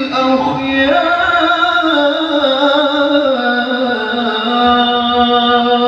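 A male qari's voice chanting the closing Arabic blessing in melodic Quran-recitation style, drawing out the last word 'al-akhyar' in a long melisma that moves through a few pitch steps and then holds one long note.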